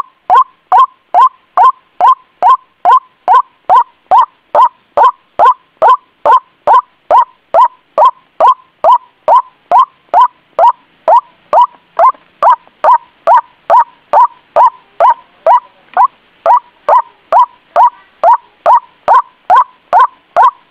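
White-breasted waterhen's monotonous lure call: short, loud, pitched notes repeated evenly at about two a second.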